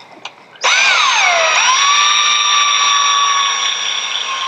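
Electric drill spinning up and boring into the babbitt of a Model T bearing cap: a high-pitched motor whine that sags in pitch as the bit bites, then runs steady.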